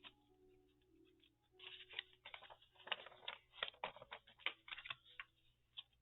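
Quick scratchy rubbing and tapping of an ink pad worked onto the edges of cardstock, densest from about one and a half seconds in to about five seconds in.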